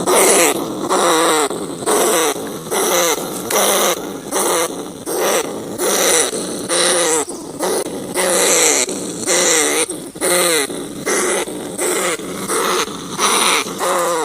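Rats calling: a continuous run of short, harsh, pitched cries, about one to two a second, many of them falling slightly in pitch.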